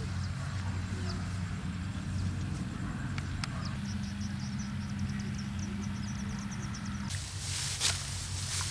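A small engine running steadily with a low hum. About seven seconds in, the sound changes abruptly to a noisier mix with a few sharp clicks.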